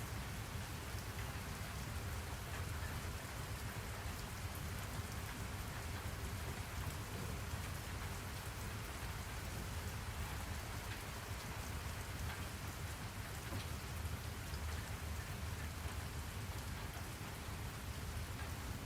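Steady rain falling on a surface, a constant even hiss with scattered small drop ticks over a low rumble.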